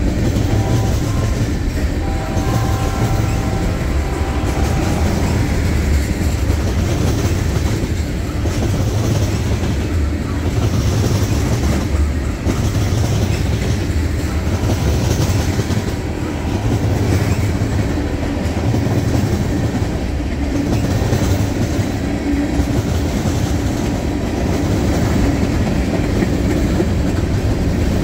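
Freight train of covered hoppers and tank cars rolling past close by: a steady, heavy rumble of wheels on rail that swells and eases as the wheel sets go by.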